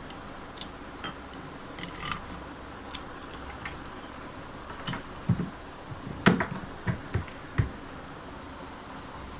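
Small metal parts of a table fan motor clinking and knocking as the back bearing cup (rear end cover) is fitted onto the motor and tightened: light clicks at first, then a handful of sharper knocks, the loudest about two-thirds of the way through.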